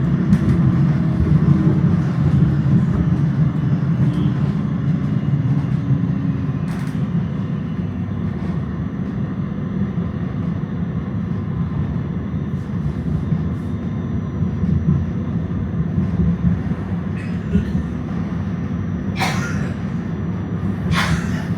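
Tram running along its rails, a steady low rumble with a few sharp clicks, two louder ones near the end.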